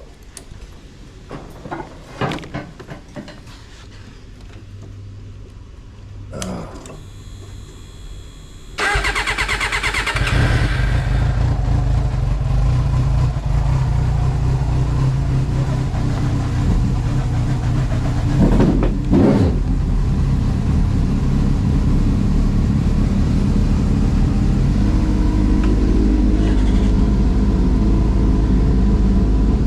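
A motorcycle engine cranked on its electric starter with a short whine, catching about nine seconds in, then running steadily at idle. A few light clicks and rattles of handling keys and gear come before it.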